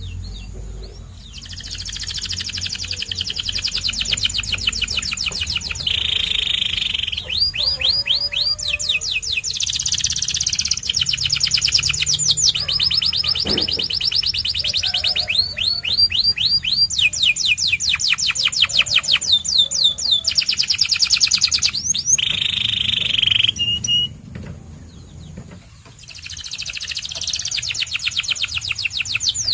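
White canary singing a long song of fast trills and rapidly repeated notes, phrase after phrase. It pauses for about two seconds near the end, then starts again.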